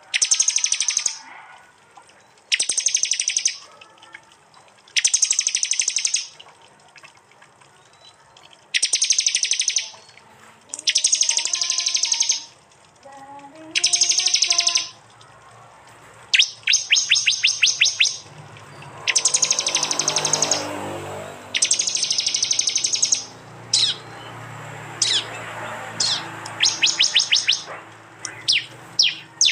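Prinia (prenjak) song: loud bursts of rapid ticking notes, each about a second long, repeated every couple of seconds, with shorter quick calls and a few single chips near the end.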